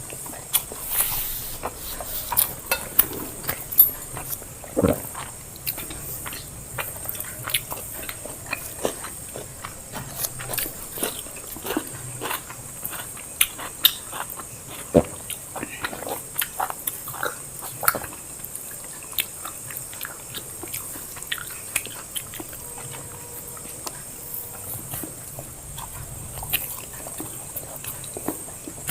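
Close-up eating sounds: chewing and lip-smacking on a mouthful of biryani and salad, with irregular short smacks and clicks.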